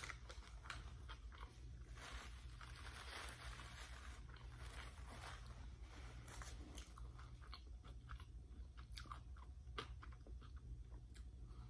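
Faint close-up eating sounds: chewing a mouthful of burrito and crunching Flaming Hot Cheetos, with scattered small mouth clicks.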